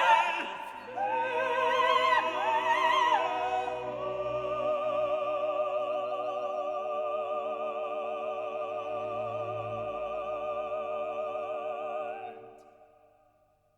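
Operatic singing with classical accompaniment. The voice shows a wide vibrato and holds one long note from about four seconds in; the music ends and fades away near the end.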